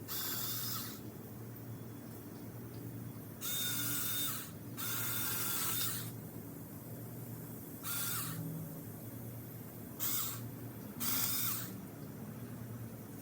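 Mini cordless electric chainsaw run in six short bursts, each under about a second or so, its chain cutting into persimmon branches with a whirring, rasping whine.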